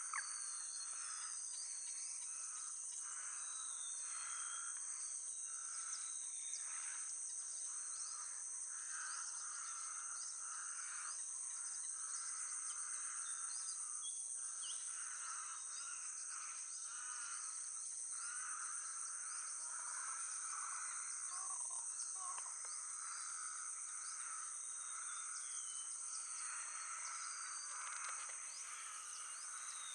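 Outdoor wetland soundscape: insects droning steadily at a high pitch, with a lower pulsing insect chorus underneath and scattered short bird chirps and calls throughout.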